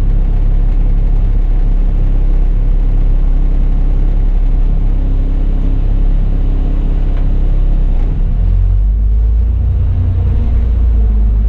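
A city bus's engine running with a steady low rumble, heard from the driver's cab; about eight seconds in its note shifts to a stronger, steadier low hum.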